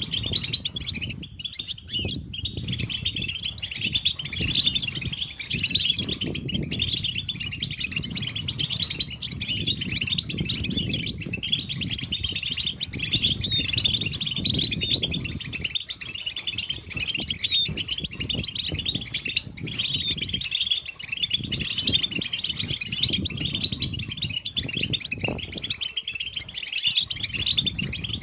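A group of European goldfinches chattering and singing together: a dense, unbroken run of fast, high twittering, the kind of collective chatter used as a lure to set male goldfinches singing. A low rumble rises and falls underneath.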